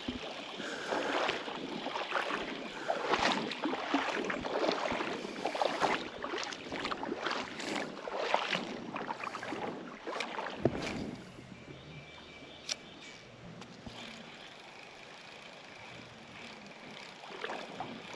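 Legs wading through shallow creek water: irregular sloshing and splashing that stops about eleven seconds in, leaving a quieter stretch of water sound.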